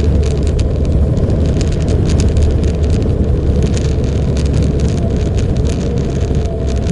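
Motorcycle under way: a steady, loud low rumble of engine, road and wind noise.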